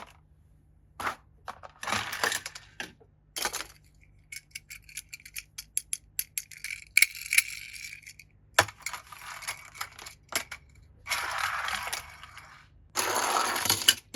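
Small plastic toys and their packaging being handled: scattered clicks, rattles and clinks, with a quick run of clicks in the middle and a few short bursts of rustling.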